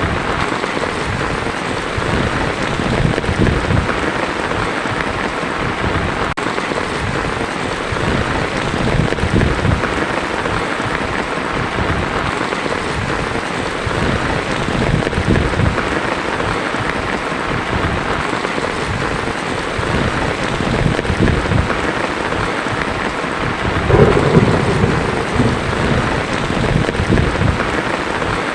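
Heavy rain drumming on a tin roof, with thunder rumbling in low swells several times. The loudest roll comes near the end.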